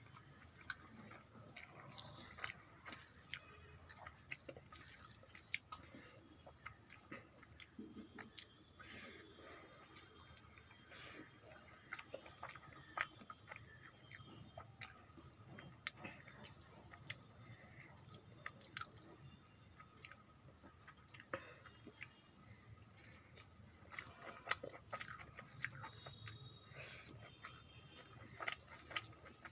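Faint close-up chewing and biting, with many small irregular clicks and crunches, from a person eating a meal of rice, fried vegetables and chicken curry.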